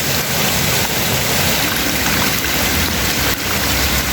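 Heavy rain and rushing floodwater, a loud steady hiss of water.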